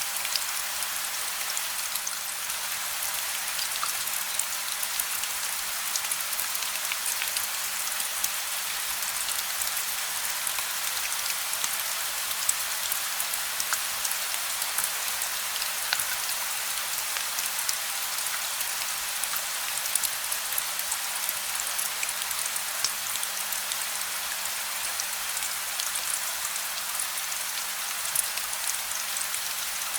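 Steady rain falling on a surface: a dense, even hiss of drops with many small individual drop ticks scattered through it and no thunder. A faint low steady hum sits underneath.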